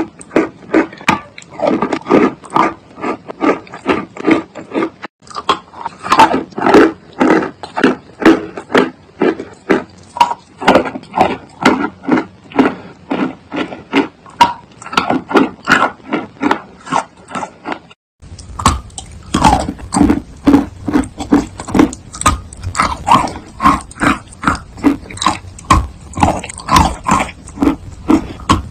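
Close-miked chewing of chalk: wet, crunchy chews at about two a second, with two short breaks where the sound cuts off and starts again.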